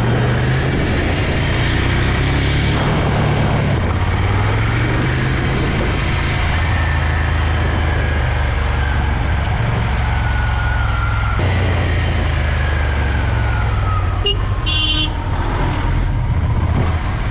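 Ducati Scrambler's air-cooled L-twin engine running on the move, its note shifting a few times. A horn honks briefly about three-quarters of the way through.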